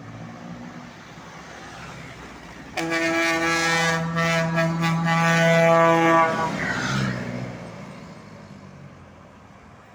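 Truck horn sounding one long, steady blast of about three and a half seconds over the noise of the truck, which then fades away.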